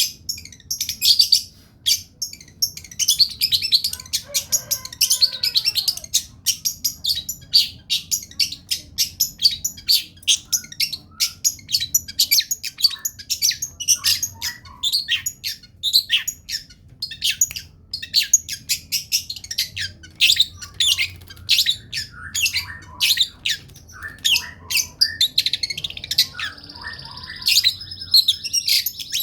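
Long-tailed shrike (cendet) singing continuously in rapid, sharp chirping and squawky notes, several a second, with a brief held whistle near the end.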